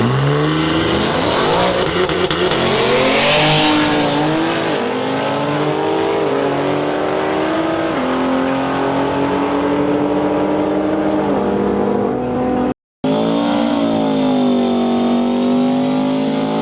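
A car engine accelerating hard through the gears, its pitch climbing and dropping back at each of several upshifts. After a brief cut near the end, an engine note rises and falls unevenly.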